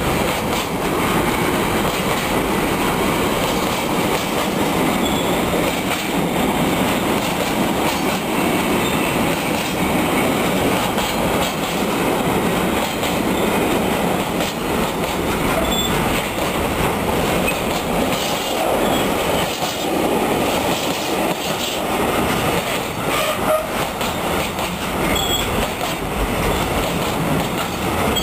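Container flat wagons of a freight train rolling past at speed: a steady rumble and clatter of steel wheels on the rails, with a few faint brief squeals.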